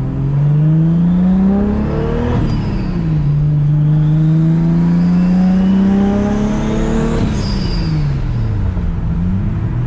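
Toyota Supra's engine accelerating under way: the engine note rises, drops sharply at an upshift about two seconds in, climbs steadily again, then falls away as the driver backs off, picking up once more near the end.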